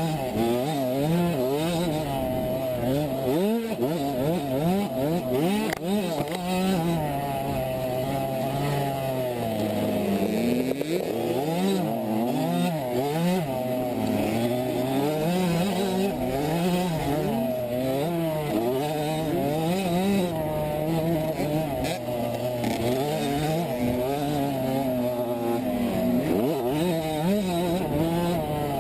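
A 65cc two-stroke motocross bike's engine revving up and down over and over as the throttle is worked through the track.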